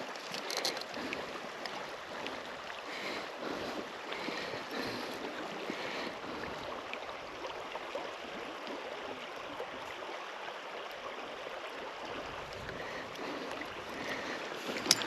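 Steady rushing of river water flowing past, an even noise throughout with a few faint small sounds on top.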